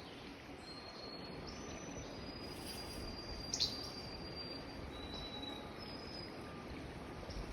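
Wild songbirds calling: a series of clear, held high whistles at several different pitches, with a sharp chirp about three and a half seconds in, over a faint steady hiss.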